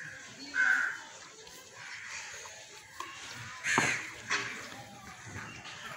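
A few harsh bird calls over faint outdoor ambience, the loudest a little before two-thirds of the way through.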